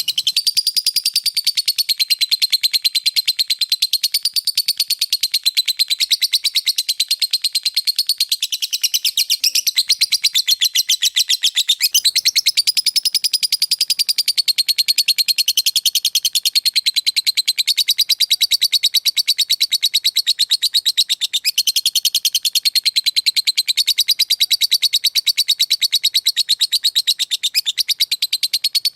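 Lovebird giving its long 'ngekek' song in the 'ngetik' style: an unbroken, very rapid chatter of high, sharp notes, many per second like typewriter keys, with barely a pause.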